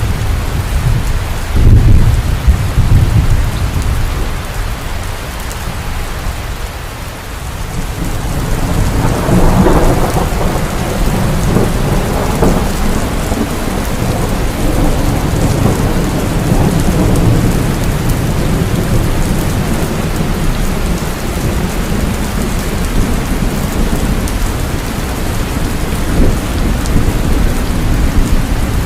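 Heavy rain falling steadily with thunder: a sudden loud clap about two seconds in, then rolling thunder that swells up about eight seconds in and rumbles on under the rain.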